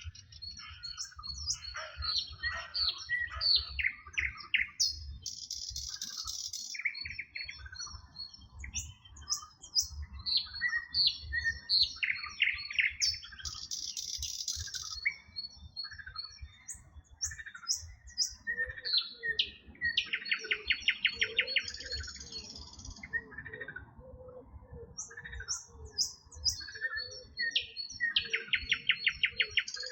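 Several songbirds singing together in a dawn-chorus-like mix of chirps, whistles and rapid buzzy trills. From about two-thirds of the way in, frogs add a low repeated croaking beneath the birdsong.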